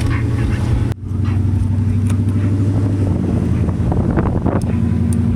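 Pickup truck engine running while driving, heard as a steady low drone with road noise, with a brief break about a second in.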